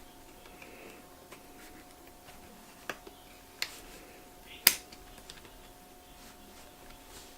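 Small sharp clicks and taps of a RAM module being handled and pressed into the upper memory slot of a 2012 MacBook Pro, with three distinct clicks, the loudest about halfway through.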